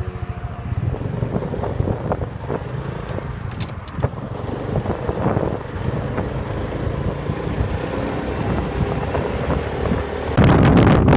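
Motorcycle engine running on the move, a steady low rumble with scattered rattles. Near the end, loud wind noise on the microphone suddenly covers it.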